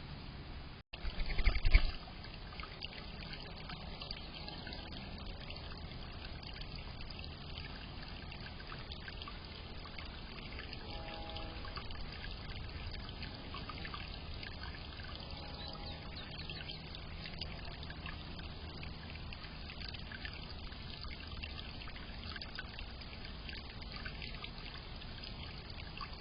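Water trickling and splashing steadily in a small fountain. About a second in there is a brief, much louder burst of noise.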